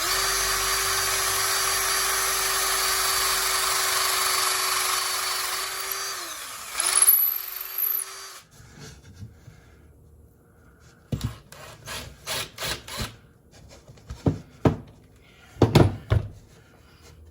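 Electric drill boring a hole in a board: the motor runs steadily for about six seconds, winds down, and spins again briefly. A series of knocks and clatters follows near the end.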